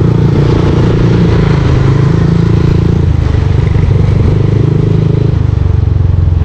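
Yamaha Aerox V2 scooter's single-cylinder engine running through a JVT V3 aftermarket exhaust while riding, a steady exhaust note that eases off about three seconds in and drops lower again near the end.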